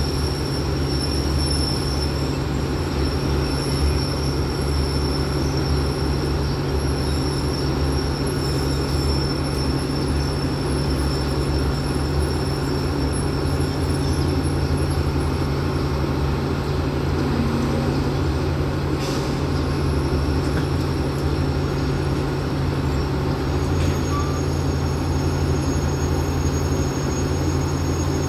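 Passenger coaches rolling past on the adjacent track with a steady rumble of wheels on rail, over the low, even hum of a standing diesel-electric locomotive idling.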